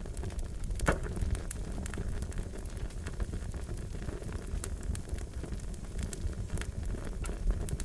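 Fire crackling: a steady low rumble with irregular sharp pops and snaps, one louder pop about a second in.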